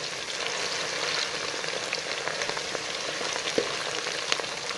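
Sliced onion half-rings frying in hot oil in a kazan, being stirred with a wooden spatula: a steady, dense sizzle dotted with crackles and a few sharper pops.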